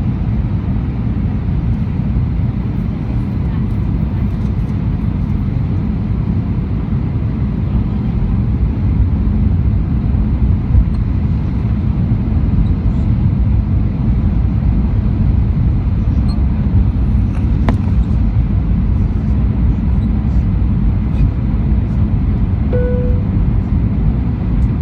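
Steady cabin noise of an Airbus A319 in flight, the rumble of its CFM56 engines and the airflow heard from a seat over the wing, with faint steady whines above it. A short clear tone sounds once near the end.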